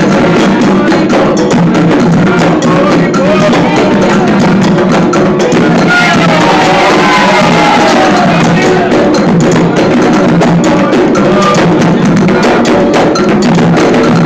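Candomblé ritual music: atabaque hand drums and a struck bell keep a fast, steady rhythm while a group of voices sings a chant, the singing clearest around the middle.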